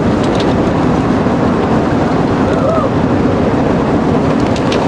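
Vehicle driving fast in a pursuit: a loud, steady rush of road and wind noise, with a few faint clicks.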